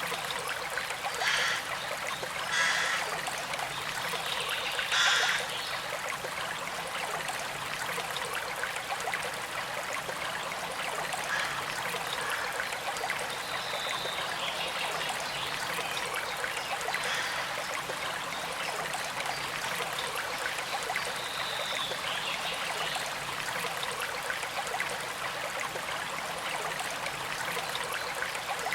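A small creek flowing and trickling steadily, with a few brief louder splashes and gurgles in the first five seconds.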